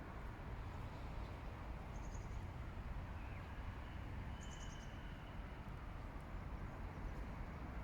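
A few faint, high bird calls: a brief chirp about two seconds in, a quick run of notes around the middle and a thin held whistle, over a steady low rumble.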